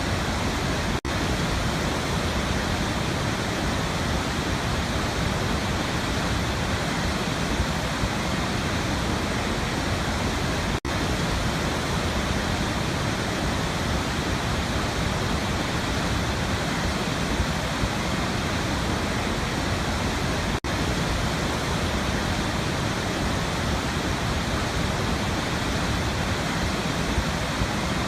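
Waterfall rushing in a steady, dense roar, with a very brief dropout about every ten seconds.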